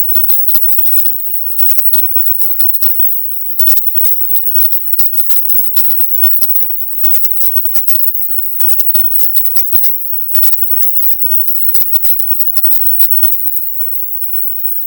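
Silent subliminal audio: a constant very high-pitched band at the top edge of hearing, overlaid with rapid, choppy, scratchy crackling across the whole range. The crackling stops about thirteen seconds in, leaving only the high band.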